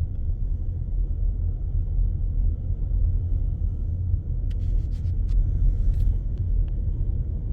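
Car driving, a steady low road rumble, with a few light, irregular clicks between about four and a half and seven seconds in.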